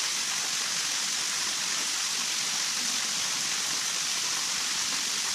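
Steady, even hiss of rushing water, strongest in the upper range.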